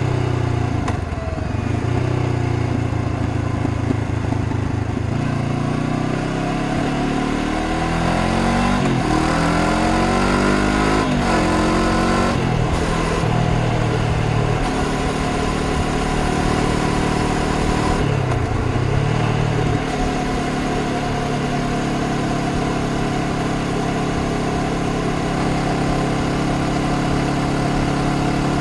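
Honda CBR500R's parallel-twin engine pulling the bike along at speed. It revs up through the gears in rising steps from about seven to twelve seconds in, then drops and picks up again in a brief dip near nineteen seconds, and holds steady revs for the rest.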